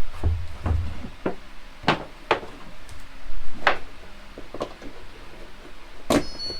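A series of about eight irregular knocks and taps, unevenly spaced, with a sharp one about six seconds in.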